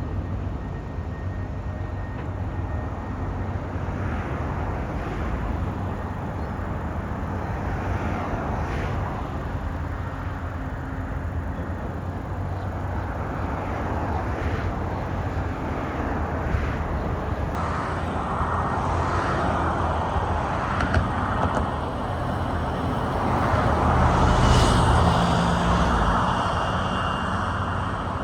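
Steady outdoor motor noise with a low hum, growing louder in the second half and peaking a few seconds before the end.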